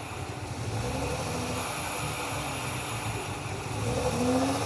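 Hyundai Tiburon engine running rough and uneven with a misfire, its low rumble picking up about four seconds in as it is revved.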